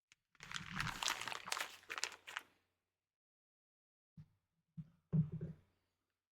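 Rustling, crinkly handling noise for about two seconds, then a few soft knocks and bumps near the end.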